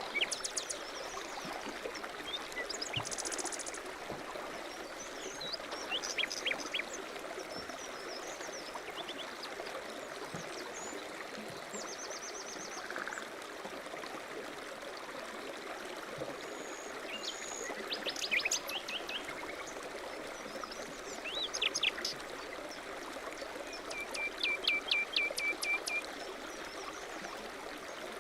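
A stream running steadily, with several birds chirping and giving short trills over it at irregular intervals.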